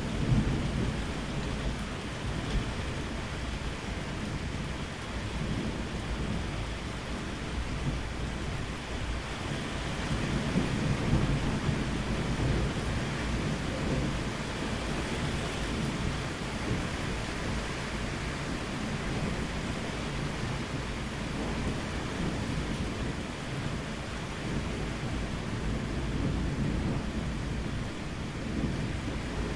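Steady rain falling, with low rolling thunder rumbling underneath and swelling louder about ten seconds in.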